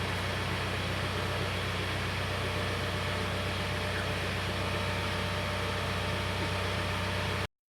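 BadBoy 5045 compact tractor's engine idling steadily, as it runs to drive the backhoe hydraulics, until the sound cuts off suddenly near the end.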